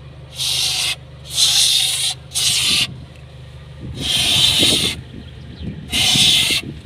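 Aerosol can of silicone lubricant sprayed through its thin extension tube in five short bursts of hiss into the rear drum brake, over a steady low hum. The lubricant goes on to cure a squeak from the rear drum when the brake pedal is released.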